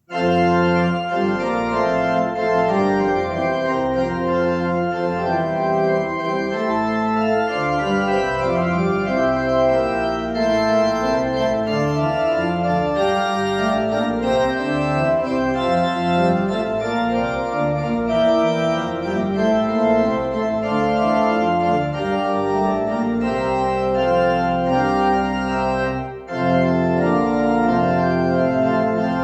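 Church organ playing the postlude: full sustained chords over deep bass pedal notes, with a brief break about 26 seconds in.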